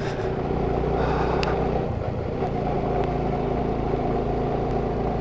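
Motorcycle engine running steadily while riding, a low, even engine note whose pitch shifts slightly about two seconds in.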